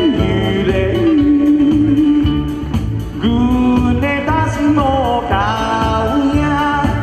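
Live band playing a Taiwanese Hokkien song, with long held, gliding melody notes over a steady bass beat.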